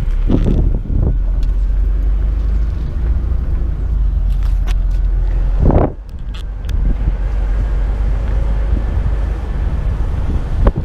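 A car's engine and tyre rumble, heard from inside the vehicle as it drives slowly across an old bridge. There are two heavier thumps, one about half a second in and a sharper one near six seconds.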